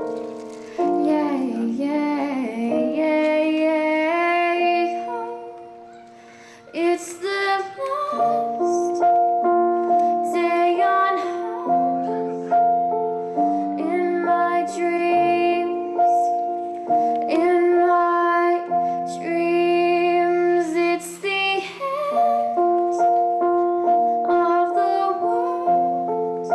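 Slow ballad: a female voice sings long, wavering notes over sustained keyboard or piano chords.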